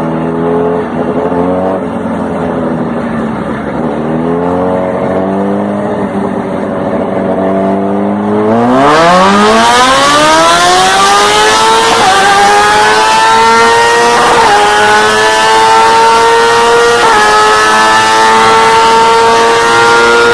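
Motorcycle engine on a dynamometer, revved in short blips at low speed, then pulled hard. About eight seconds in its pitch climbs steeply and holds near the top, with brief small dips every two to three seconds.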